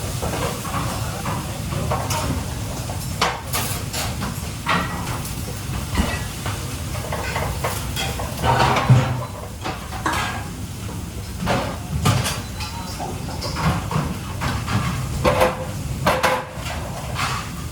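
Working kitchen: a steady low hum and hiss, with irregular knocks and clatters of utensils and pans.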